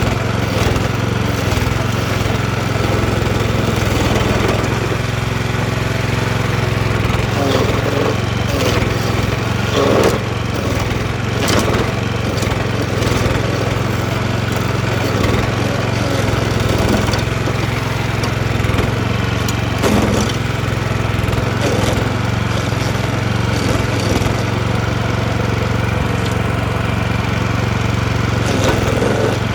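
DR stump grinder's engine running steadily under load while its toothed cutting wheel grinds into a tree stump, with irregular sharp knocks and scraping as the teeth bite the wood.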